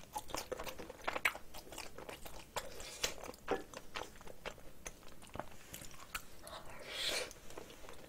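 Close-miked chewing of a mouthful of rice mixed with spicy cockle sauce: many irregular wet clicks and smacks of the mouth and teeth, with a brief hiss near the end.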